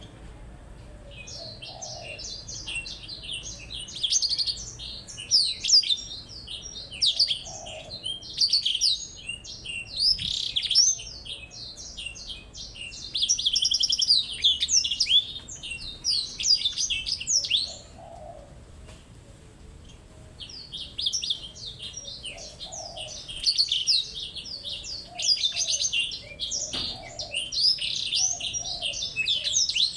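Cage songbirds, a blackthroat and a glatik belong, singing a fast, continuous twittering song of rapid high chirps and trills, with soft lower notes every few seconds. The song eases for a couple of seconds a little past halfway, then picks up again.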